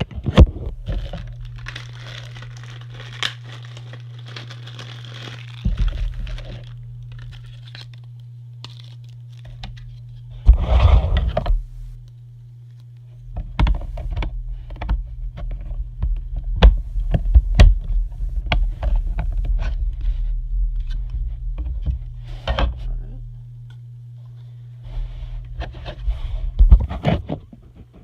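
Hands assembling a model airplane display stand: sharp clicks and knocks of parts being fitted, with scraping and bursts of packaging rustle. A steady low hum runs underneath.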